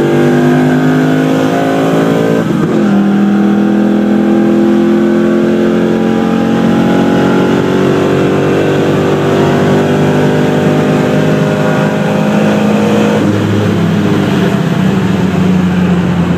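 2004 Pontiac GTO's heads-and-cam modified LS1 V8 under full throttle, heard from inside the cabin. The engine note climbs steadily, drops at an upshift about two and a half seconds in, climbs again for about ten seconds, and drops at another upshift about three seconds before the end.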